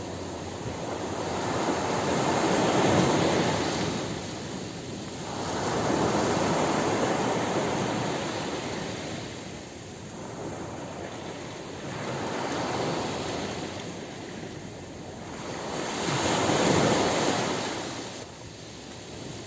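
Ocean surf breaking on a beach: a steady wash of waves that swells and recedes, with about four louder surges as waves come in.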